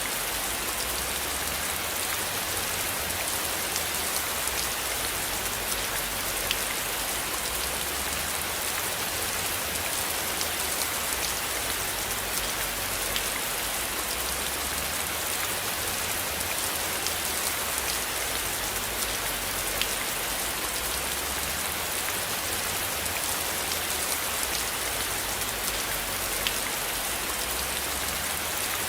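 Steady rain falling, a dense, even patter of many drops that holds without letup.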